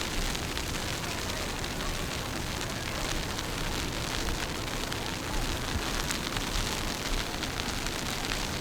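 Wind buffeting the microphone during a walk through heavy snow: a steady, rough low noise with no clear single events.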